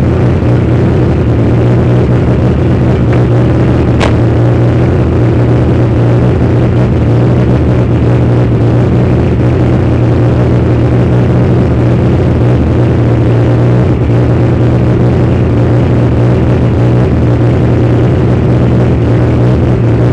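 Car engine running loud at a steady, unchanging speed, with a faint click about four seconds in.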